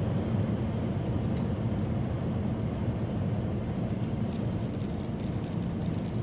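Steady road and engine noise inside a semi-truck cab cruising at highway speed: a constant low rumble with tyre hiss, and some faint light ticking in the second half.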